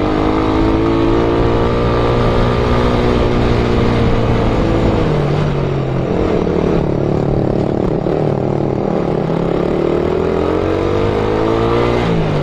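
Motorcycle engine running under load up a steep climb, its pitch sagging through the middle and rising again near the end.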